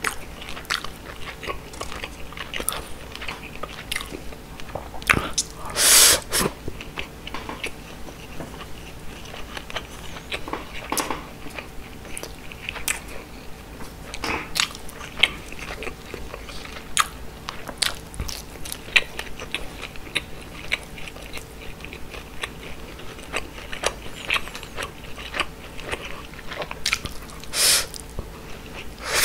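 Close-miked chewing and mouth sounds of a person eating grilled mackerel with rice, with many short light clicks and smacks. Wooden chopsticks tap on the fish and the board. Two louder bursts come about six seconds in and near the end.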